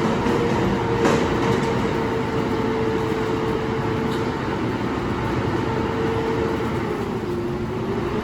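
Garbage truck running, its engine or hydraulics giving a steady whine that dips in pitch and rises again near the end, with a brief knock about a second in.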